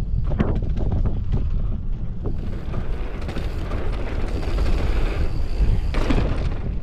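Wind rushing over the microphone of a mountain bike riding fast downhill, with tyres rolling on dirt and the bike rattling over bumps in short clusters of clicks and knocks, about a second in and again near the end.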